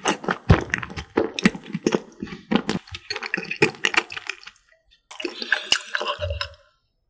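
Close-miked chewing of a mouthful of soft pastry, with wet, sticky clicks of the mouth. About five seconds in come a few gulps of milk drunk from a glass.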